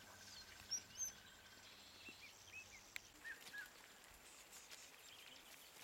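Quiet bush ambience with a scattering of faint short chirps: a few high ones in the first second, then lower hooked ones, a pair about three and a half seconds in.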